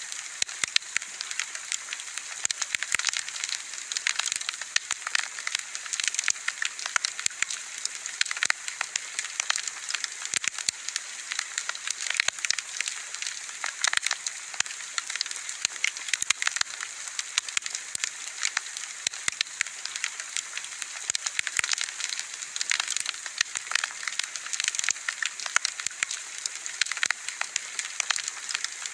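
Wood bonfire burning steadily, with dense irregular crackles and pops over a steady hiss.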